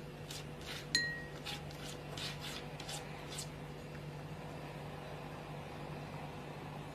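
A sharp glassy clink about a second in, among a run of short rubbing or scraping strokes over the first few seconds, over a steady low hum.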